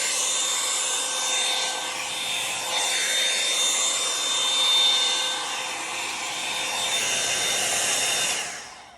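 Revlon One-Step hair dryer brush running, a steady rush of air with a thin high whine whose tone wavers; it is switched off near the end.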